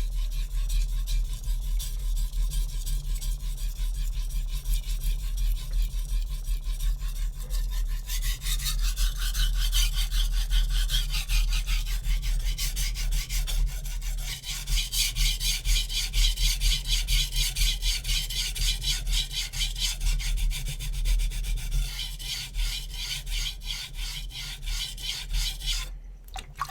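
HAP40 steel chef knife edge scraped back and forth across a Naniwa Super Stone whetstone in a steady run of quick rasping strokes, getting louder about a third of the way through. This is the last pass on the stone before stropping. A steady low hum runs underneath.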